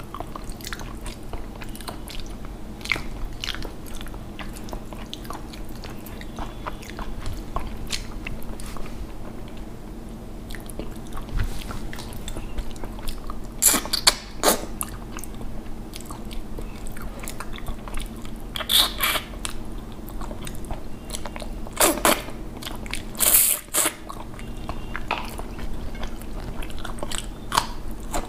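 Close-miked mouth sounds of a person eating rice and fish curry by hand: wet chewing and smacking with many small clicks, and a few louder smacks around the middle and two-thirds of the way through, over a faint steady hum.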